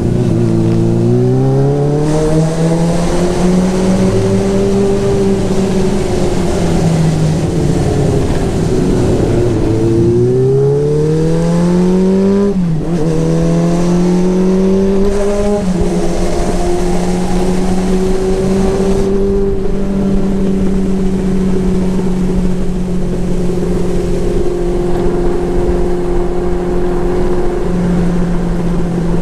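Motorcycle engine accelerating: its pitch climbs, eases off and climbs again, drops twice at gear changes about halfway through, then holds steady at cruising speed. A steady rush of wind noise runs under it.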